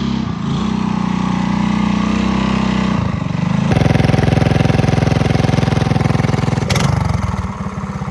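Mini bike's small four-stroke engine running, revving higher and louder a little under four seconds in and easing back near the end.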